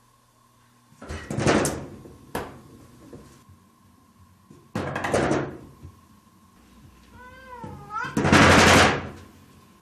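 A cat knocking on a door with its hind paw, in several loud bursts of thumps. It meows once shortly before the last and loudest burst.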